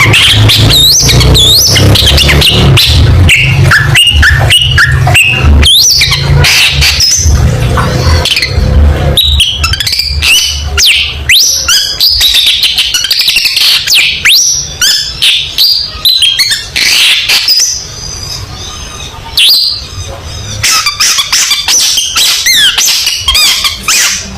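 Long-tailed shrike singing loudly: a fast, busy string of sharp chattering notes and quick whistled glides, with a few short pauses in the second half. A low rumble runs under the song for the first several seconds.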